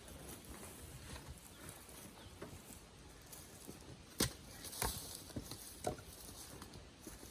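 Firewood blocks being tossed, giving a few separate wooden knocks, the sharpest about four seconds in, with quieter handling noise between.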